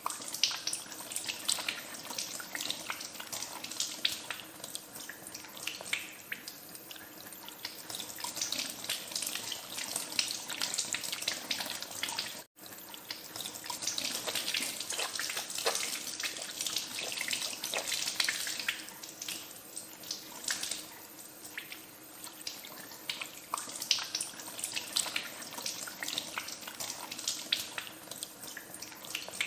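Tap water running into a sink while hands are washed under it, with uneven splashing. The sound drops out for a split second about twelve seconds in.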